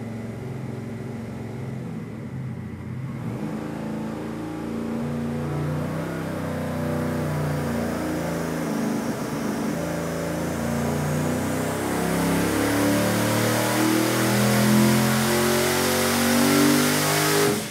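428 cubic inch twin-turbo Ford V8 on an engine dyno, pulling under load through 3-inch Dynomax Bullet straight-through mufflers at about 20 pounds of boost. Its pitch and loudness climb steadily through the run, and it cuts off suddenly at the end.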